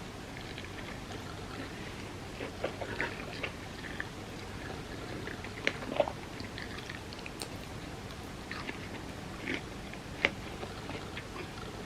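Close-up eating sounds of soft crepe cake: quiet chewing with scattered wet mouth clicks and smacks, a couple of sharper clicks about halfway and near the end, over a steady background hiss.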